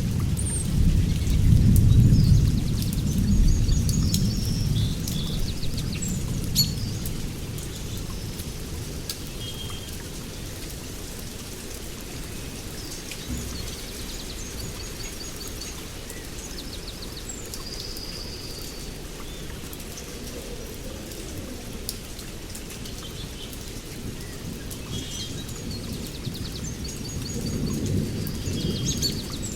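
Thunderstorm: steady rain falling, with a loud rolling thunder rumble in the first few seconds that fades out and a second rumble building near the end. Birds chirp in short repeated calls over the rain.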